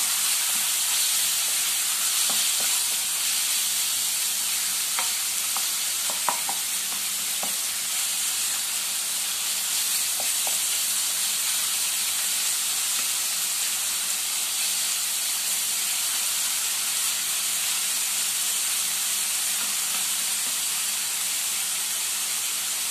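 Chicken breast strips sizzling steadily in a frying pan, with a wooden spatula scraping and knocking against the pan a few times during the first half.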